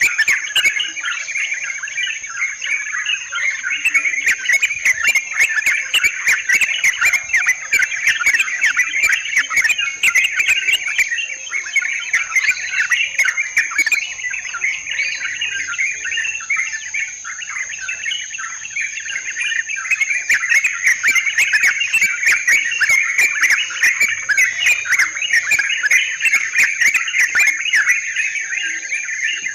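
Yellow-vented bulbuls (trucukan) chattering without a break, in dense overlapping calls, over a steady high insect buzz.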